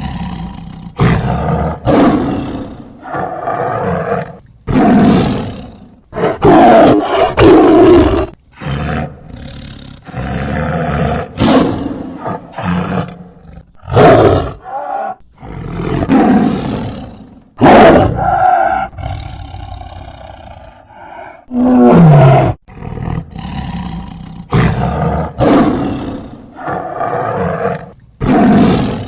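A large animal giving loud, rough calls over and over, about one every second or two.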